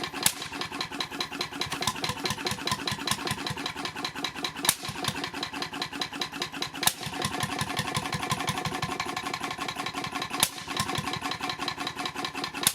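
H V McKay Sunshine 10hp type C portable engine running with a fast, even ticking beat. A sharper crack stands out every two to four seconds.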